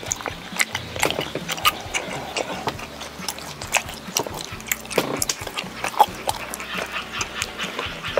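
Close-miked eating: irregular crisp crunches and wet chewing as a mouthful of food is bitten and chewed.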